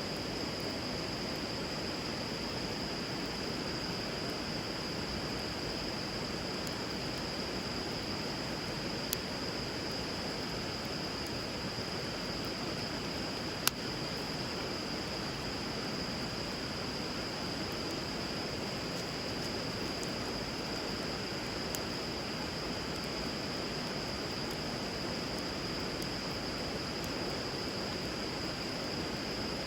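Bonfire burning on a river: the steady rush of flowing water, with a few sharp pops from the fire, the loudest about halfway through, over a constant high-pitched whine.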